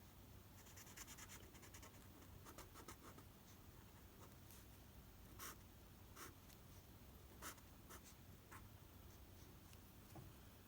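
Faint scratching with scattered light clicks, a few of them sharper near the middle.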